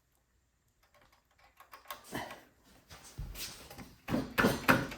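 Small clicks, taps and scraping of a snowblower's choke lever and its fittings being handled and fitted back on. They are sparse at first and grow busier and louder over the last couple of seconds.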